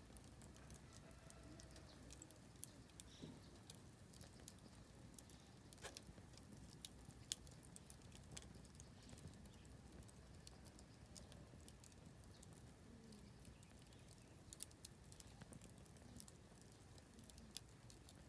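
Oak firewood burning in a fire pit, crackling with irregular sharp pops and ticks, a few louder snaps among them.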